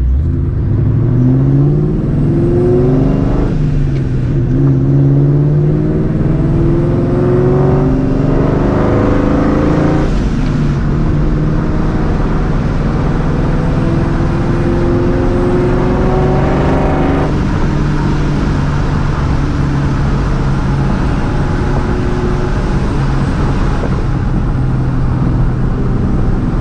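Supercharged Ford Mustang GT's 4.6-litre two-valve V8, breathing through long-tube headers, a catless X-pipe and a Borla ATAK cat-back exhaust, pulling through the gears: the engine note rises in each gear and drops back at each upshift, three times, then settles to a steadier cruise for the second half.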